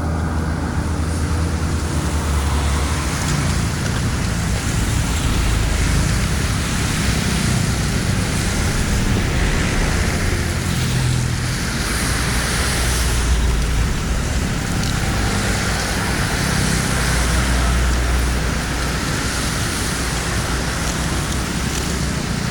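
Steady rush of flowing floodwater draining through a cleared dam or culvert opening, a continuous wash of noise with a deep rumble underneath.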